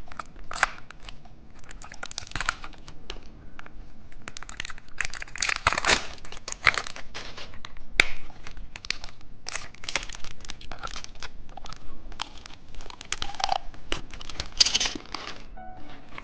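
Plastic packaging being handled, torn and crumpled: irregular crinkling and tearing crackles as a wrapped toy or candy is unwrapped.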